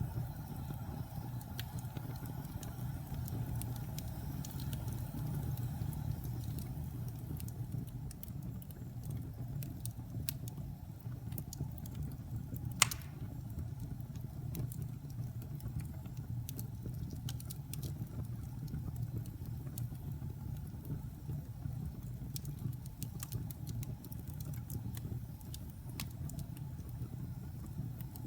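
Wood fire burning in a fireplace: a steady low rumble with scattered small crackles, and one sharp, loud pop about halfway through.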